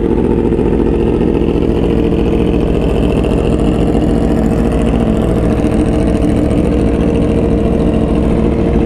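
Inline-four sport motorcycle engine idling steadily.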